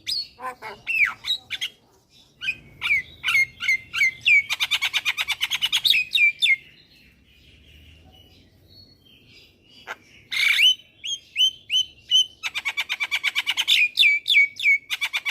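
Javan myna singing a loud, fast chatter of rapid repeated notes and short downward-sliding whistles. It comes in two long bouts with a quieter pause in the middle.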